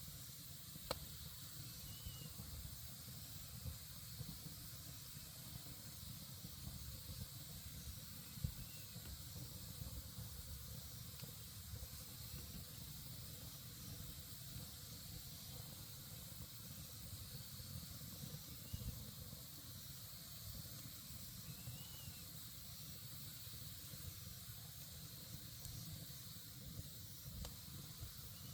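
Wood campfire burning with a steady crackle and hiss, and occasional sharp pops, the loudest about a second in and about eight seconds in.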